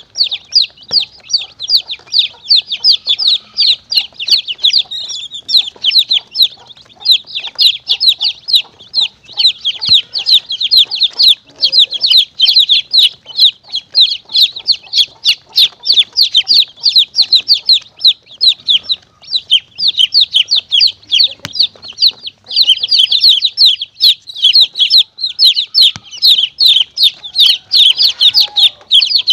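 Many baby chicks peeping continuously in a dense chorus of short, high calls, several each second.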